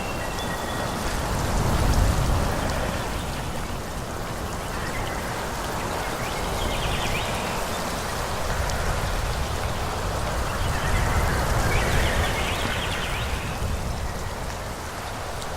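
Wind blowing through forest trees, swelling in gusts about two seconds in and again around eleven seconds, with a steady rustle of leaves.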